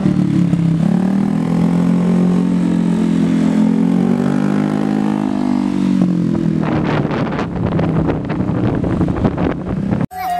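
Single-cylinder engine of a Honda Vario 125 scooter running through a short Proliner TR1 racing exhaust, a deep, loud exhaust note that swells and dips slightly in pitch. From about seven seconds in it turns rougher and more ragged, with crackling pulses, then cuts off suddenly near the end.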